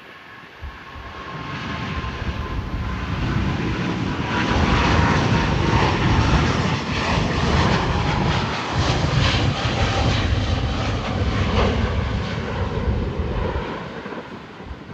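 Jet roar of an Airbus A350-900's twin Rolls-Royce Trent XWB turbofans at takeoff thrust, building over the first few seconds, loudest through the middle, then fading near the end as the airliner passes and climbs away.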